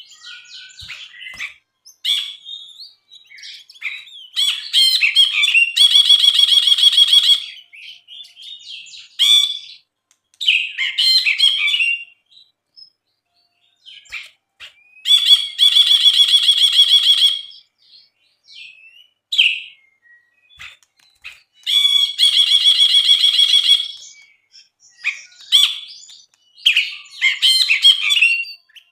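Brinji, a bulbul, singing a lively, varied song: three long rapid buzzy trills of about two to three seconds each, between shorter chirps and whistled notes.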